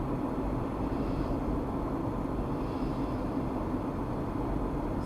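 Steady low rumble of a car driving on the road, engine and tyre noise with no sudden changes.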